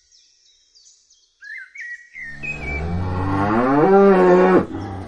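A cow mooing: one long moo starting about two seconds in, rising in pitch and then dropping off, after a few faint high chirps.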